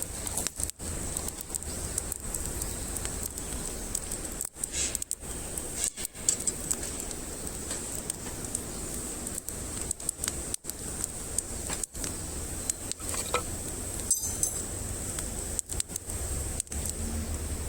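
Wood campfire burning steadily, with scattered crackles over a continuous hiss.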